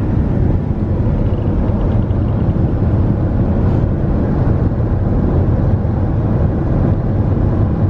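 Steady low rumble of a car driving, road and wind noise with no breaks or changes.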